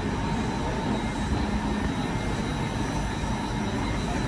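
Steady rumble and hiss of a Eurostar train in motion, with a faint steady high whine over it.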